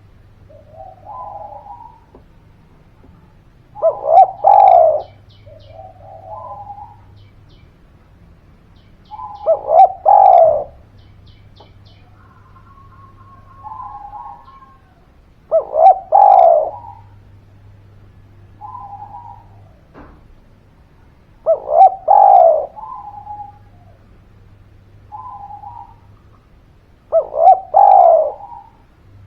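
Spotted dove (derkuku) cooing in a steady cycle: a soft short coo, then a loud multi-note coo phrase. This repeats about every six seconds, five loud phrases in all.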